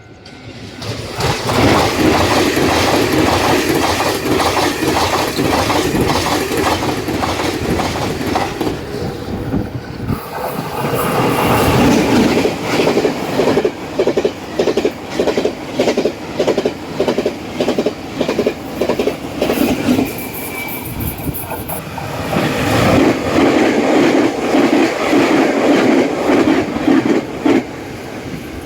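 Taiwan Railway trains passing at speed, the wheels clacking in quick, even rhythm over fishplate rail joints. The rhythm breaks off about ten seconds in and again about twenty seconds in, then picks up with another pass.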